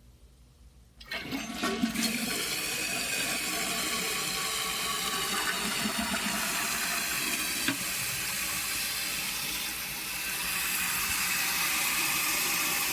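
1995 Mansfield Alto toilet flushing: water rushes in suddenly about a second in and keeps running steadily as the bowl drains and the tank refills.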